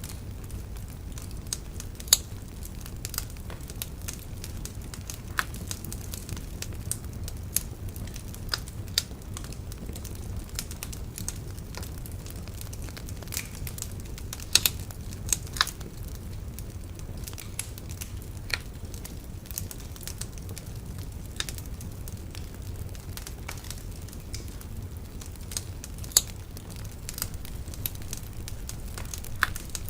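Wood bonfire crackling: irregular sharp pops and snaps, a few of them louder, over a steady low rumble.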